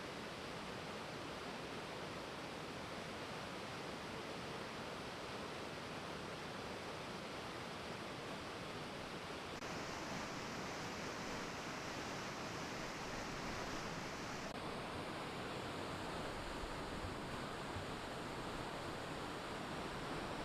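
Steady rush of running meltwater, an even hiss with no distinct splashes, shifting slightly in tone about ten and fifteen seconds in.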